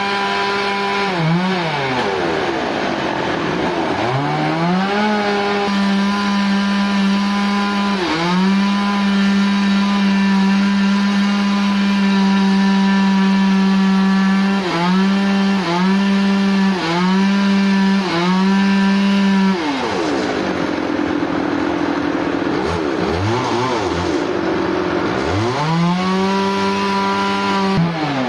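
A motor-driven saw cutting wood at high speed. Its pitch sags each time the blade takes load in the cut and then picks back up. There is a long sag early on, a run of quick dips about once a second in the middle, and a longer drop near the end.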